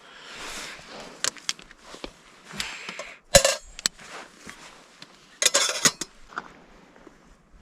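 Metal camp cookware and utensils clinking and clattering as they are handled, with scattered sharp knocks. The loudest clank comes about a third of the way in, and a longer clatter follows past the middle.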